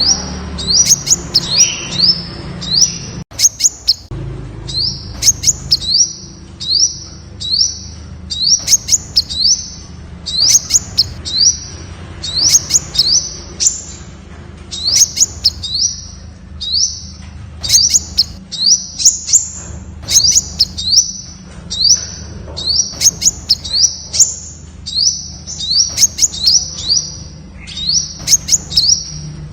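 Temminck's sunbird calling: a fast, steady series of short, high notes, each sliding upward, several a second, mixed with sharp ticks.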